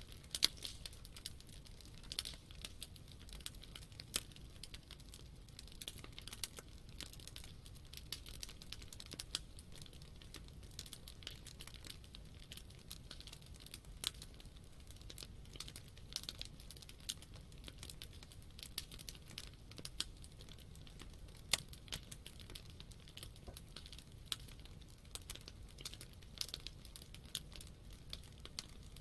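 Wood campfire crackling: irregular sharp pops and snaps of burning wood over a soft low rumble of the flames.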